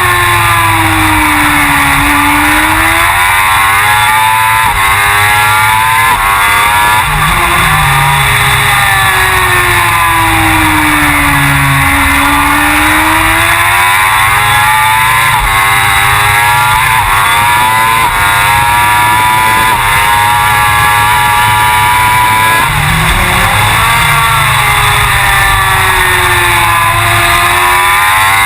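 Suzuki GSX-R1000 superbike's inline-four engine running hard at high revs, its pitch rising and falling again and again as the bike accelerates and slows through corners.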